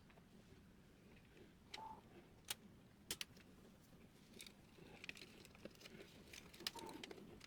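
Faint, sparse clicks and light taps, a few of them sharp, from small printer parts being handled.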